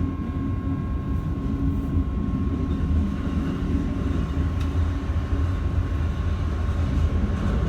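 Keikyu 1000 series electric train running at speed, heard from inside the car: a steady low rumble of wheels on track with a constant thin whine.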